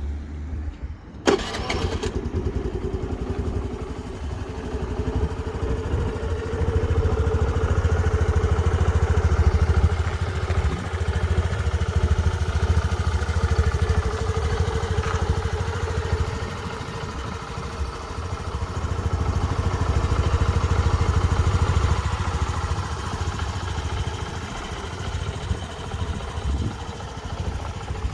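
Stock Honda NAVI110 scooter's 110 cc air-cooled single-cylinder four-stroke engine starting with a sudden catch about a second in, then running with its exhaust note. Its speed and loudness rise twice in gentle blips of the throttle before settling back.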